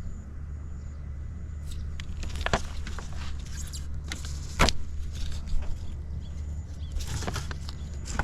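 Honda Motocompo's small two-stroke single idling with a steady low hum, with a few sharp knocks, the loudest about halfway through.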